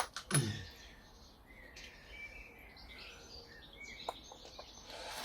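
Faint birds chirping in the background, with a few sharp clicks and knocks of hand tools on the fork bolts near the start and again about four seconds in.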